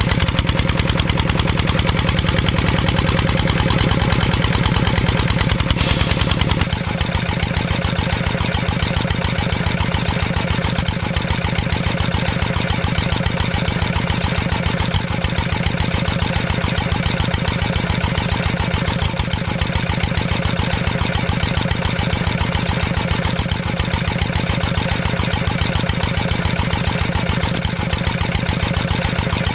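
Small engine running steadily with an even beat. About six seconds in there is a short hiss, and the engine note then drops a little and carries on.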